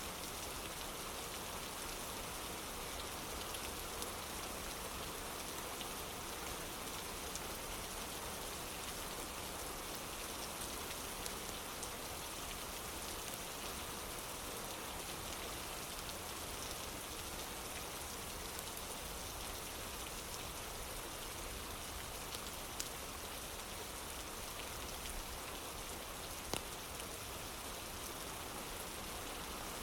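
Steady rain falling on a wooden porch, an even hiss with a few sharp ticks, two a little louder near the end.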